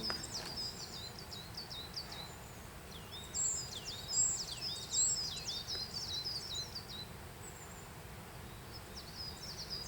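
A small songbird singing in bouts of rapid, high chirps and down-slurred notes: one phrase ends about half a second in, another runs from about three to six and a half seconds, and a third starts near the end, over a faint background hiss.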